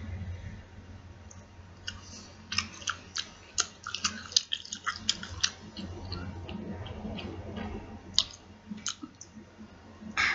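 Wet mouth clicks and smacks of someone chewing pepperoni, coming in quick runs, thickest from about two and a half to five and a half seconds in and again near the end.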